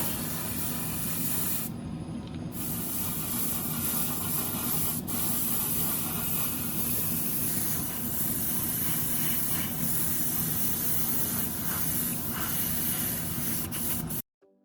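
Paint being sprayed onto a scale model part: a steady hiss that thins briefly about two seconds in and stops just before the end.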